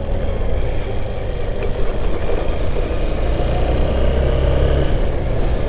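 Honda motorcycle's engine running steadily as it is ridden slowly along a street.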